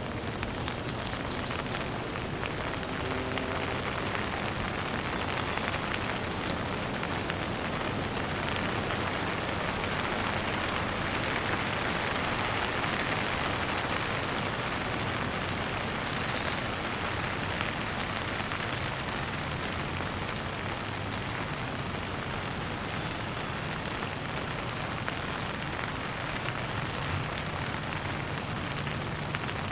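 Steady gentle rain falling. A brief run of high bird chirps comes about halfway through.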